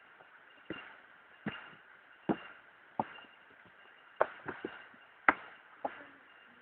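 Footsteps on a rocky trail: sharp knocks about one every three-quarters of a second, coming quicker and less evenly in the second half, the loudest a little past five seconds in.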